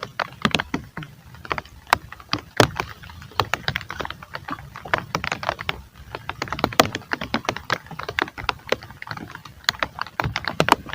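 Raindrops hitting close to the microphone: a dense, irregular patter of sharp taps over a low rumble of rain.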